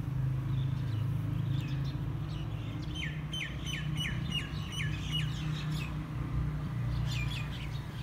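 A small bird chirping: a quick run of about nine short falling chirps, about three a second, then a few more near the end, over a steady low rumble.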